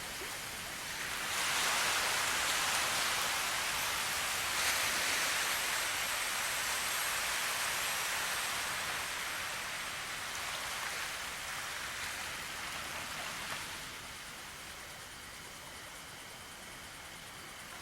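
Rain falling as a steady hiss that swells heavier about a second in and eases back down near the end.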